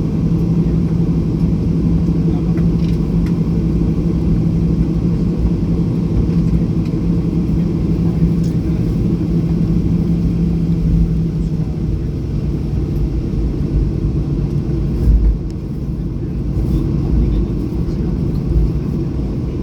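Cabin sound of a Boeing 737-800 taxiing: the CFM56-7B engines running at taxi power as a steady low rumble, with a held hum that fades about two-thirds of the way through. A brief thump comes about three-quarters in.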